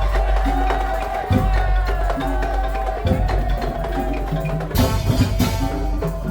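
Madurese tong-tong ensemble music: wooden slit drums and drums beating a steady rhythm under a wavering, sliding melody line. About five seconds in the band gets fuller and brighter.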